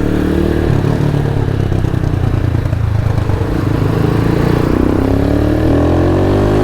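Motorcycle engine running through a loud exhaust, steady at first, then rising in pitch as it accelerates in the last second or two.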